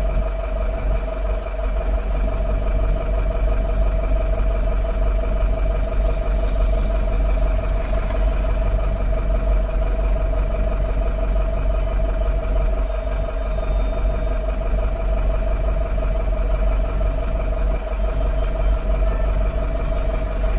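Truck engine running steadily: a low drone with a steady whine held over it.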